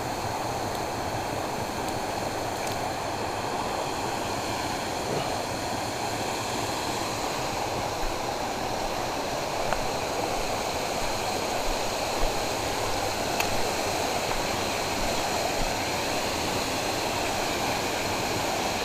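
Steady rush of flowing canal water, with a few faint clicks.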